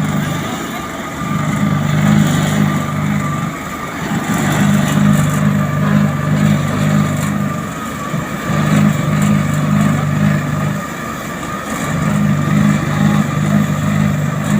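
Heavy road-paving machinery running. A low engine hum cuts in for two to three seconds at a time and drops out briefly between stretches, about five times over, with a steady mechanical whine above it.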